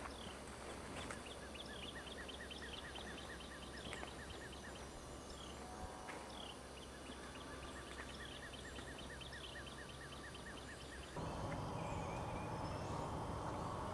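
Wild birds calling in woodland: a rapid run of short repeated chirps, about four a second, lasting several seconds, with other scattered calls around it. About eleven seconds in, a louder low noise starts abruptly.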